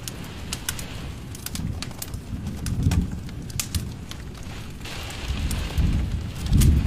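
Wood fire crackling and popping with sharp irregular snaps, and a low rumble of flame that swells twice, the second near the end the loudest.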